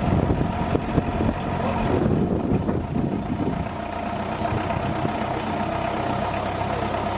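A vehicle engine running steadily, louder for the first few seconds and then settling, with a steady mid-pitched tone through it.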